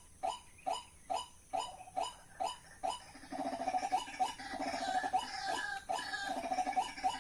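White-breasted waterhens calling: a steady series of short, evenly spaced calls about two a second, joined about three seconds in by a denser run of rapid churring notes that carries on.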